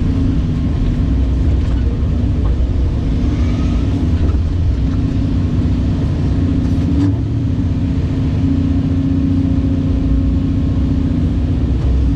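Caterpillar 349E excavator's diesel engine running steadily under working load, with a steady low hum and one brief knock about seven seconds in.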